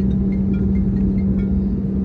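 Airliner cabin noise during takeoff: the jet engines' steady drone, with a constant hum and a low rumble.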